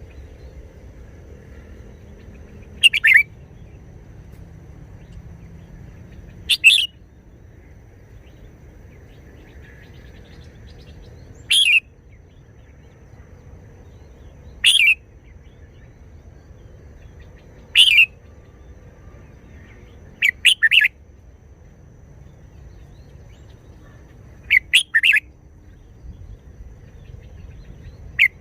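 Red-whiskered bulbul singing short, clear phrases, one every three seconds or so, with a few given as quick double phrases.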